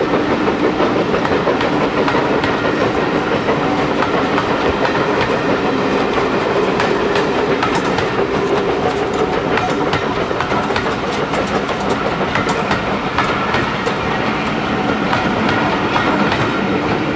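Train running along the track, its wheels clattering over the rail joints in a steady, loud run of clicks.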